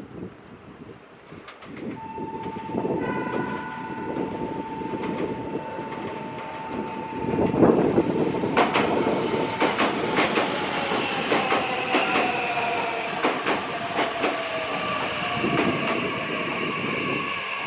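Meitetsu electric train pulling into a station: wheels rumbling and clicking over the rail joints, with an electric motor whine that falls slowly in pitch from about ten seconds in as the train brakes.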